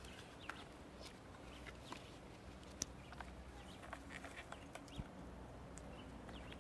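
Faint outdoor background of scattered short bird chirps and small clicks over a low steady hum.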